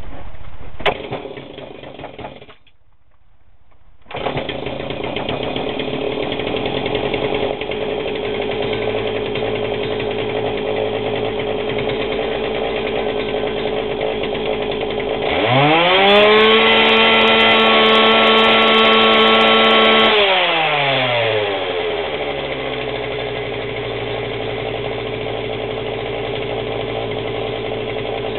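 Stihl KM85 combi unit's small two-stroke engine picks up abruptly after a short lull about four seconds in, then idles steadily. Past halfway it revs up sharply, holds at high revs for about five seconds, and drops back to idle. This is a cold start.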